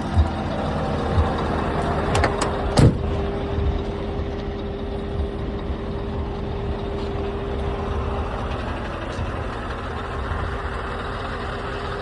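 Scania truck running steadily, with a couple of clicks and one loud knock about three seconds in.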